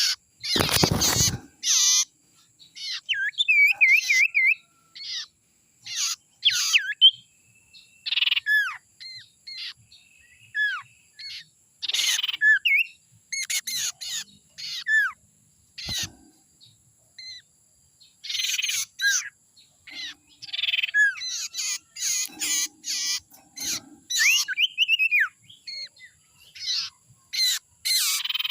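A young wild sirtu (cipoh, the common iora) calling, recorded for use as a lure: a busy run of sharp chirps, short trills and down-slurred whistles with brief gaps. A short low burst of noise comes about a second in.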